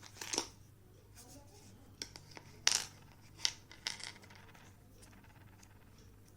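Packaging being handled while a stylus box is opened: about five short rustles and scrapes, the loudest one about two and a half seconds in, over a faint steady low hum.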